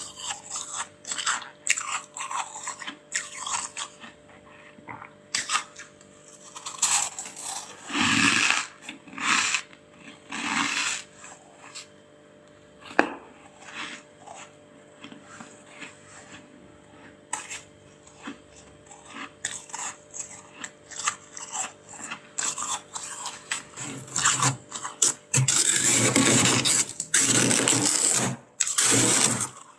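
Freezer frost being bitten and chewed: a run of crisp, crackling crunches with pauses between bites, then a long, loud stretch of continuous crunching near the end.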